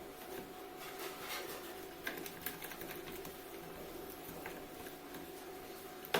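Homemade slime being mixed and handled by hand: scattered small sticky clicks and soft taps over a steady background hum, with one sharper click near the end.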